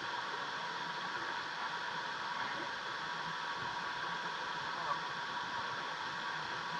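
Steady noise of a moving car heard from inside the cabin, even and unbroken throughout.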